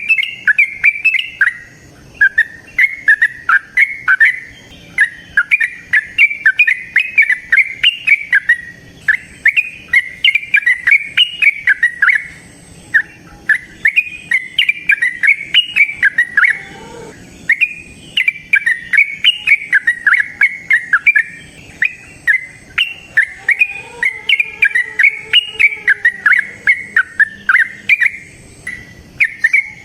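Yellow-vented bulbul singing: phrase after phrase of quick chattering notes rising and falling, with only short pauses between them. This is the long, lively song kept-bird fanciers use to prompt other bulbuls to sing.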